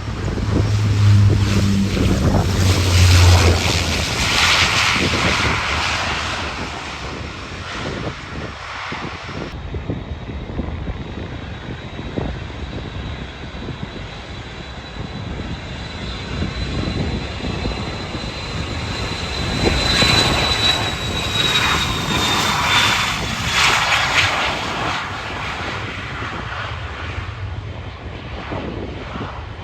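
Boeing 727-225F's three Pratt & Whitney JT8D turbofan engines running, a loud jet noise that swells and eases twice, with a thin high whine that sinks slightly in pitch later on. A low hum sits under the first few seconds.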